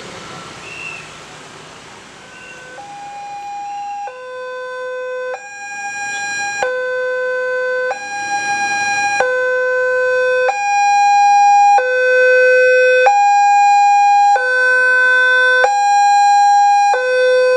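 Railway level-crossing alarm starting up about three seconds in: an electronic two-tone signal switching between a higher and a lower tone roughly every 1.3 seconds, growing steadily louder. It warns that a train is approaching and the crossing barriers are closing. Before it starts there is a wash of noise.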